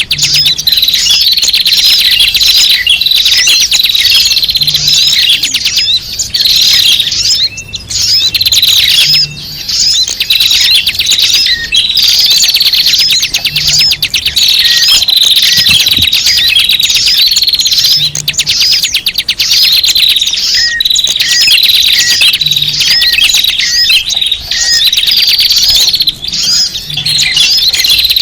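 A dense flock of small songbirds chirping and twittering noisily, played as a bird-lure (pikat) recording. The same stretch of calls loops about every four and a half seconds.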